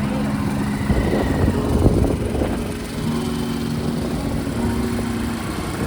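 A vehicle engine running steady, with a low hum and noise that keep up throughout.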